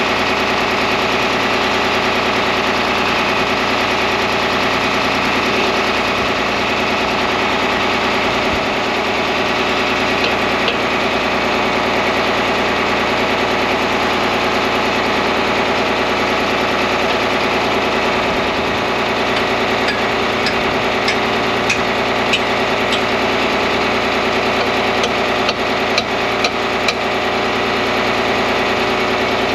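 Engine running steadily with a rapid even beat, with a few light metallic clicks in the second half.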